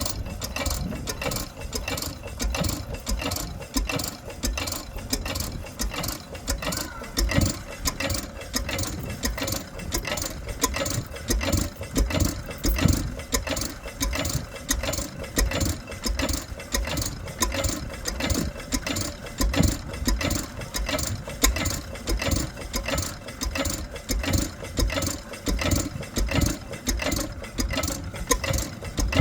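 McDonald F diesel stationary engine running steadily, a regular, even beat of firing strokes with mechanical knocking.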